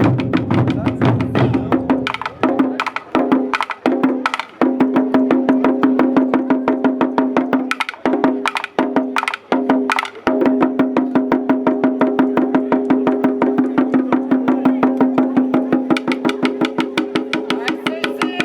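Japanese taiko drums played in fast, dense strikes with sharp clicking hits, over a steady held note. The playing stops for a split second several times, between about two and five seconds in and again between eight and ten seconds in, then runs on unbroken.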